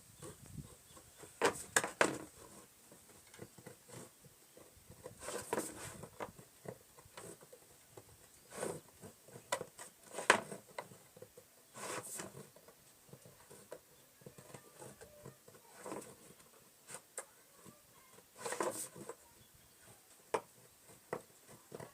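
Knife cutting and scraping at a plastic pipe by hand: irregular short scrapes and sharp clicks, a few seconds apart.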